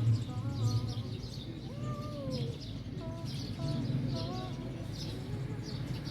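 Small birds chirping over and over in short high chirps, with several lower, sliding calls mixed in.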